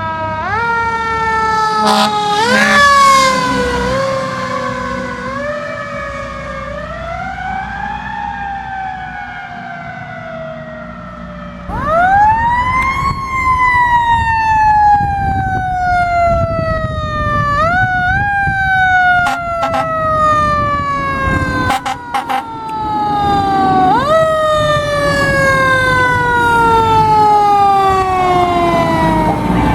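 Fire truck siren sounding over a truck's engine. The siren winds up quickly and then slowly falls away, again and again, and gets much louder about halfway through as the truck comes closer. A few short sharp blasts or clicks break in during the second half.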